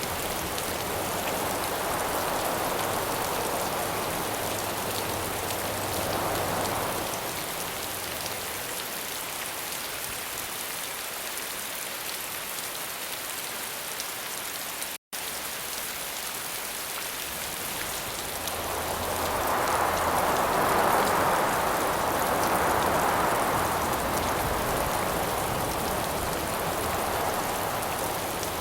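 Steady heavy rain hiss with wind rising and falling over it in two slow gusts, the stronger one in the second half. About halfway through there is a split-second gap in the sound.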